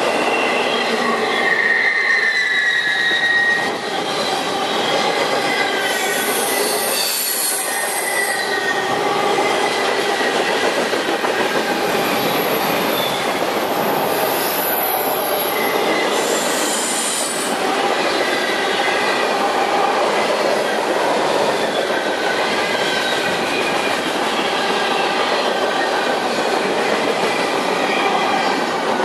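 Freight cars rolling past: a steady rumble of steel wheels on the rails, with high-pitched wheel squeal that comes and goes, strongest about six to eight and twelve to seventeen seconds in.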